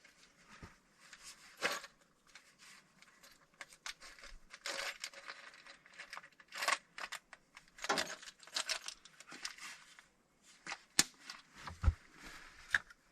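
Scattered metallic clicks, light rattles and rustling from hands handling tools and parts, with one sharper click about eleven seconds in.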